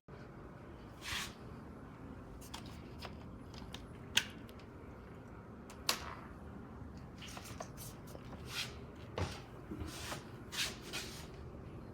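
Scattered light clicks, knocks and rustles, like objects being handled, over a steady low background hum.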